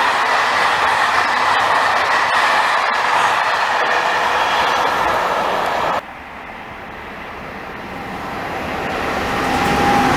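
A train passing close by at speed with a steady rush of running noise and a faint high whine. About six seconds in the sound cuts off suddenly, and a train is heard approaching, growing steadily louder.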